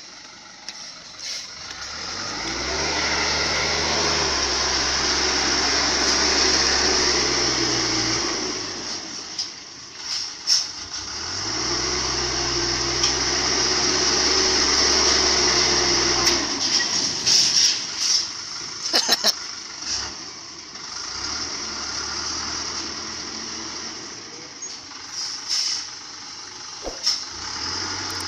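Truck engine working hard under load in low gear, pulling through mud in two long spells several seconds each, each swelling up as the revs come in. Sharp clicks and knocks come between and after the spells.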